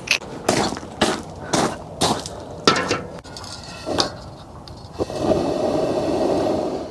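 A series of knocks and clinks, then, about five seconds in, the steady sound of a pot of water coming to a rolling boil.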